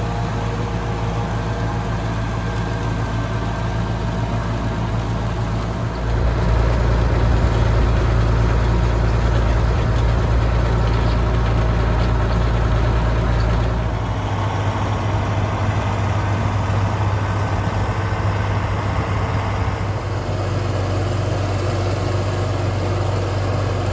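Farm tractor engine running steadily, its note growing louder about six seconds in and easing back a little past halfway.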